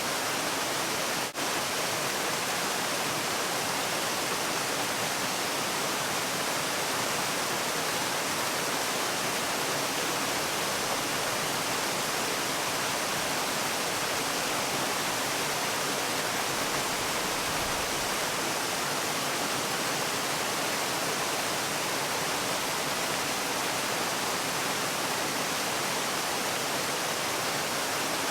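Steady rushing of falling water, an even noise with no changes except a brief dip in level about a second in.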